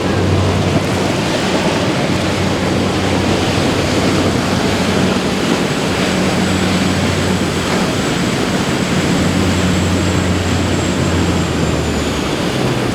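Boat engines running steadily with a low hum, over a wash of waves and wind.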